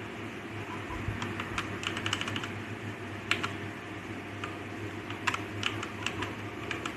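Typing on a DAREU EK87 V2 mechanical keyboard: irregular key clicks, with a quick run of keystrokes about two seconds in and a few louder single strokes later, over a steady low hum.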